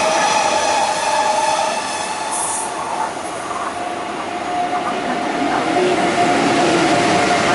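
An East Rail electric multiple unit runs past with a whine of several steady tones that fades out about two seconds in. Then the through train's LOK 2000 (Re 460-type) electric locomotive passes the platform without stopping, its wheels running on the rails over a steady hum, growing louder from about halfway.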